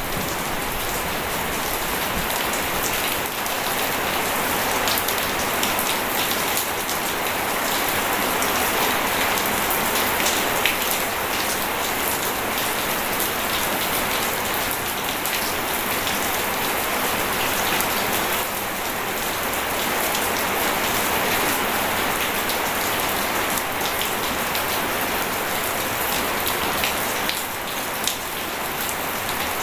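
Steady, continuous water noise: running water splashing, dense with the patter of many small drops.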